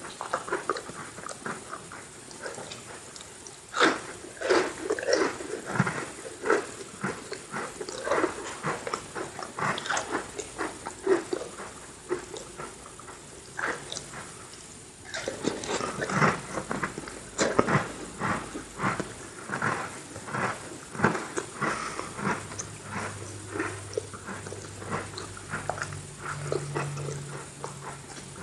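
Close-miked chewing of Oreo cookies: a long run of irregular crisp crunches and mouth clicks, with a low steady hum joining toward the end.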